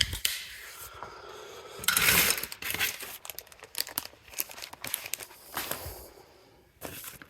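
Packaging being handled: irregular rustling and crinkling, loudest about two seconds in, dying down near the end.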